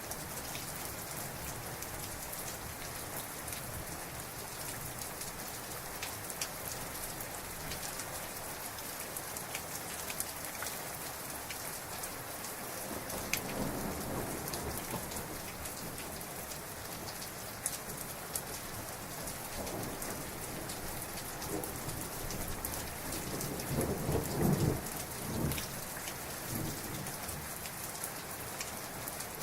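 Heavy rain falling steadily with scattered drop clicks, while thunder rumbles: one roll about halfway through and a louder, longer one about three quarters of the way in.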